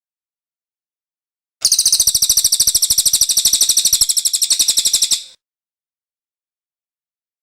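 A cililin singing one phrase of fast, evenly repeated high notes, about ten a second, lasting nearly four seconds and starting about a second and a half in.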